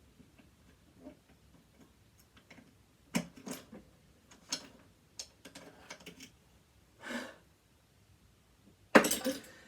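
Small metallic clicks and knocks of hand tools and screws being handled on a sewing machine being dismantled, scattered and irregular, with a louder clatter near the end.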